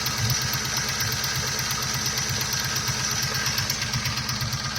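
A Mustang's 4.6-litre V8 running steadily at idle with a light repeated knock or tap. The owner takes the tap for a failed timing chain tensioner letting the chain hit the timing cover.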